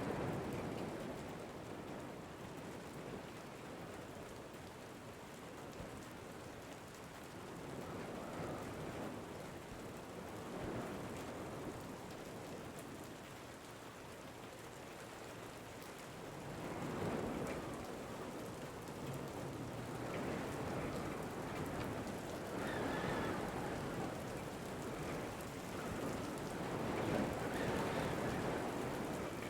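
Steady rain falling, with wind, the sound swelling and easing every few seconds.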